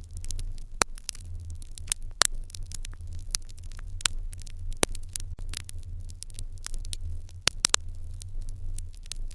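Wood fire crackling in an irori hearth: irregular sharp pops and snaps, a few a second and bunched near the end, over a low steady rumble.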